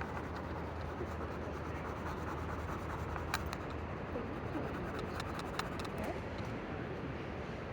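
Drawing on sketchbook paper: scratching and rubbing strokes over a steady low hum, with two sharp clicks in the middle.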